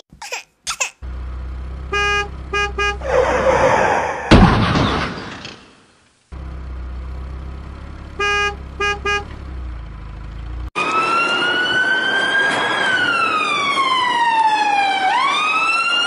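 Electronic vehicle sound effects. A steady hum is broken by short groups of horn beeps, and a rising whoosh ends in a loud bang about four seconds in. The hum and beeps return, and from about eleven seconds a siren wails, gliding up and down.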